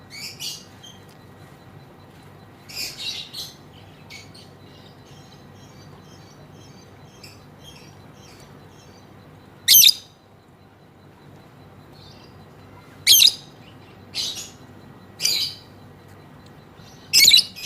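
Female lovebird giving short, high-pitched calls several seconds apart, with faint twittering between them. The loudest calls come about 10, 13 and 17 seconds in.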